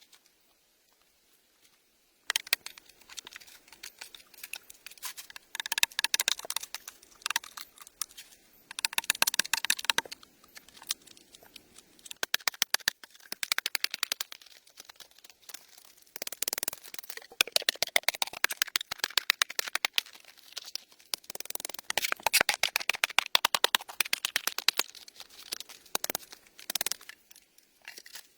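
Dense crackling and snapping, like dry leaves, twigs or bark being handled and broken, starting about two seconds in and going on in irregular spells of rapid clicks.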